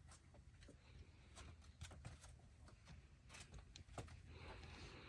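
Near silence with faint scattered taps and scuffs of a climber's hands and shoes on the boulder's rock, and a short soft rustle near the end.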